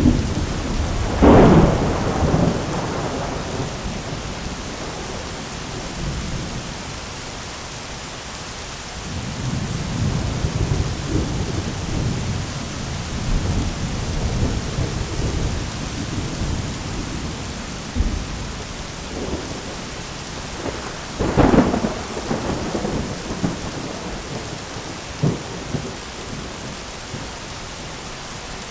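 Thunderstorm: steady rain hiss with thunder, a sharp clap about a second in, a long low rolling rumble through the middle, and another sharp clap about two-thirds of the way through, followed by a smaller one.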